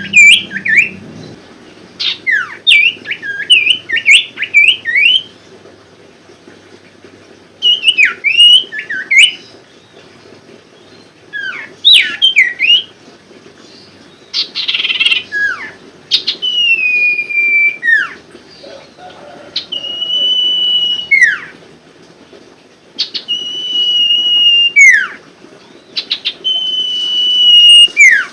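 Sirtu (cipoh) bird singing, a lure song meant to set caged birds singing. It starts with bursts of quick, warbling up-and-down chirps, then gives several long, even whistles, each ending in a sharp downward swoop.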